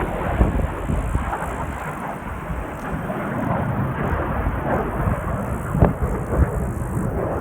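Military jet aircraft passing, a steady rumbling roar with a couple of brief thumps.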